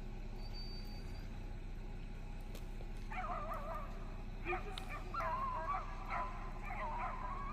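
A pack of beagles baying while running a track, several dogs' voices overlapping in wavering cries that start about three seconds in and come in spells.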